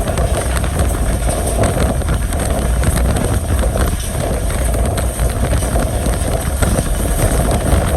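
A passenger train running at speed: a steady loud rumble of wheels on the track with wind buffeting the microphone.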